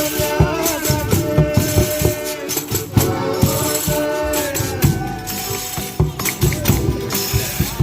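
Folia de Reis folk music: a tambourine jingling and drum beats keep a steady rhythm under a held, wavering melody line.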